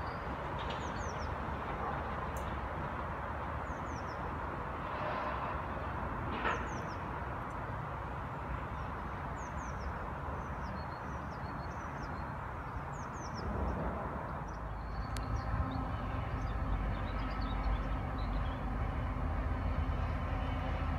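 Rumble of a electric multiple unit running away along the line, with small birds chirping over it. About fourteen seconds in, this gives way to the steady hum of a locomotive engine running, with several steady tones.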